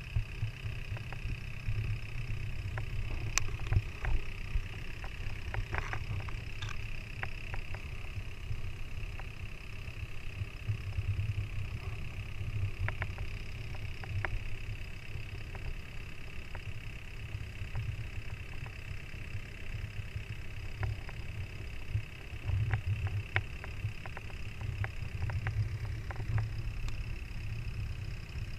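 Boat engine running steadily under way, with a low rumble and scattered light knocks and clicks.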